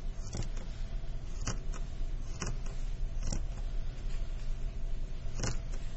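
Fabric scissors snipping through fabric, several short cuts at uneven intervals, over a steady low hum.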